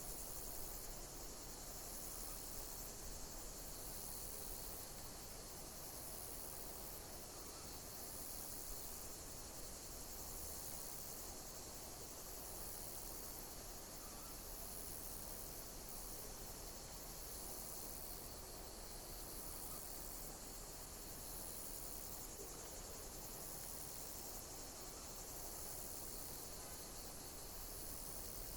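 Insects, crickets or the like, chirping: a steady high-pitched trill with a pulsed call repeating about every two seconds.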